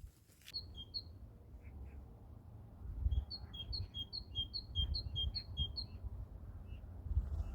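A small bird calling a high two-part chirp: a couple of calls in the first second, then a quick steady run of about seven calls between three and six seconds in. A low rumble runs underneath.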